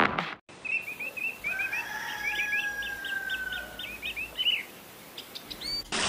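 Birds chirping: quick runs of short chirps, a long whistled note that falls slightly in pitch, and a few more chirps near the end, over a faint hiss.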